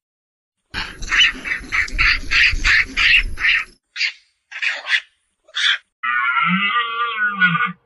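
Animal calls: a quick run of short sharp calls over a low rumble, a few spaced single calls, then one longer wavering call near the end.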